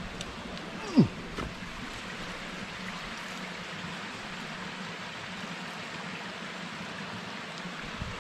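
A creek flowing steadily. About a second in there is one brief, loud sound that falls in pitch.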